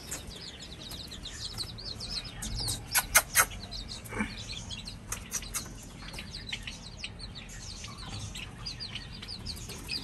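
Many small birds chirping rapidly and continuously, with three sharp knocks about three seconds in.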